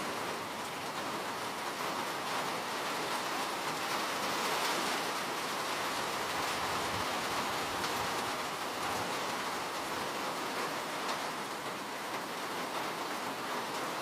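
Steady rain, a continuous even hiss of falling drops with faint scattered patters.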